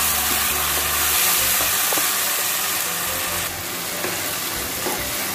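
Tomato purée and chopped onions sizzling in hot oil in a non-stick kadai as they are stirred with a wooden spatula: a steady sizzle with a couple of light taps of the spatula.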